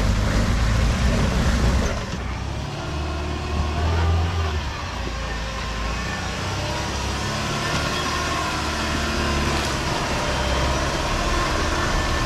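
Four-wheel drive's engine revving under load as it climbs a muddy off-road track, the engine note rising and falling. The sound drops suddenly about two seconds in.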